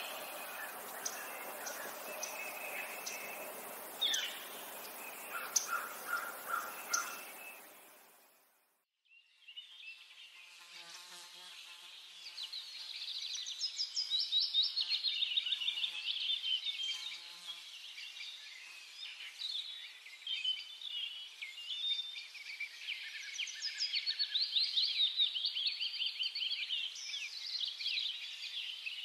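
Outdoor ambience with a faint hiss and a few scattered bird chirps that cuts out about eight seconds in. After a moment of silence, a busy chorus of small birds chirping and twittering in quick trills takes over.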